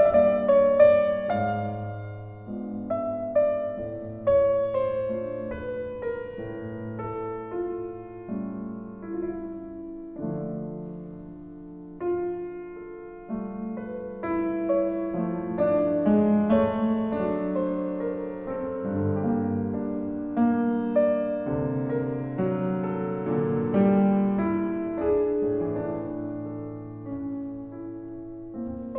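Background solo piano music, slow and gentle, with notes that ring and fade.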